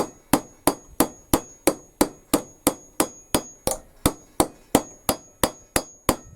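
Hammer tapping steadily on a rivet, about three blows a second, peening it over to round it off.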